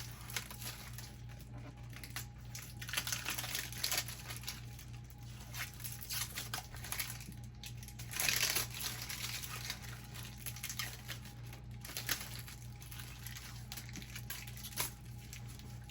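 Protective plastic film being peeled off a compact fridge, crinkling in irregular rustles, the loudest about eight seconds in.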